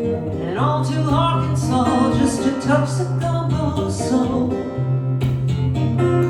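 Guitar playing the song's instrumental introduction: strummed chords under a melody line that slides up and bends in pitch.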